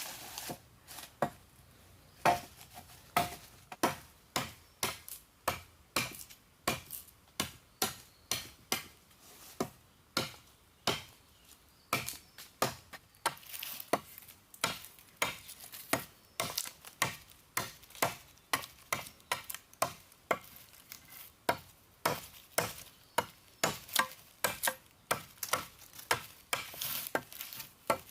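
Steady series of chopping strokes, about two a second at first and quickening to about three a second from roughly halfway through.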